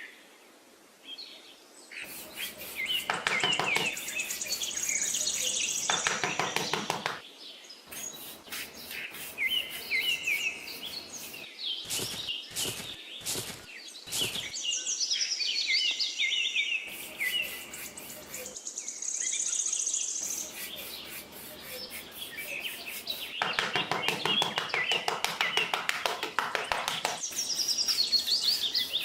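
Several birds chirping and chattering with quick, repeated high calls and trills, busier in two spells about three seconds in and near the end.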